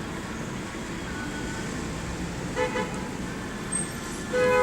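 Car horn giving two short beeps partway through and a louder, longer toot near the end, over a steady low vehicle noise.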